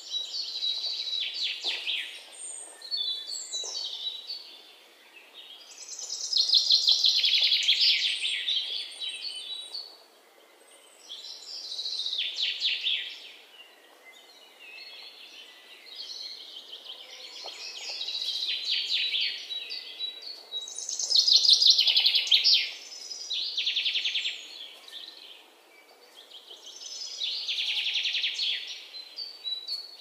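Red-whiskered bulbul calling: bursts of quick, chattering notes, each lasting one to three seconds, repeated about seven times with short pauses between.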